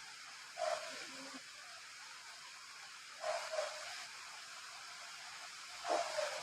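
Slow, regular breathing of someone asleep: three breaths about two and a half seconds apart over a steady hiss.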